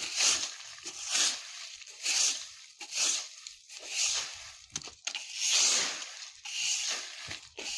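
A broom sweeping dry leaves across the ground in repeated rustling strokes, about one a second, with one longer stroke about five and a half seconds in.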